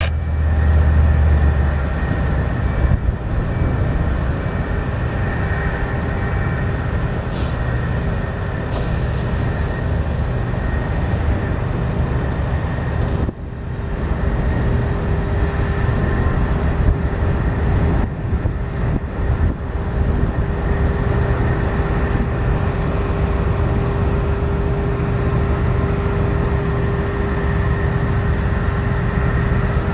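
A heavy engine running steadily, with a steady whine above the rumble.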